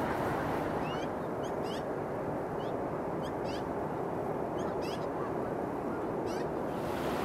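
Ducks and geese calling: a dozen or so short, sharp calls scattered over a steady rumble of city traffic noise.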